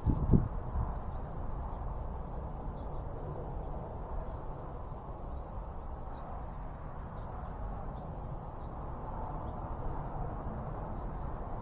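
Outdoor backyard ambience: a bird gives a short, high chirp every two to three seconds over a steady high-pitched whine and a low rumble of wind. A low thump sounds right at the start.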